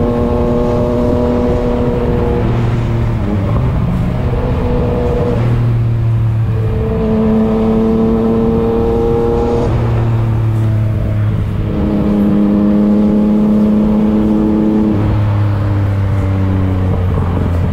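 Yamaha MT-09's three-cylinder engine and loud exhaust running under way, heard from the rider's seat. The engine holds a steady note for a few seconds at a time and shifts up or down in pitch several times as the speed changes.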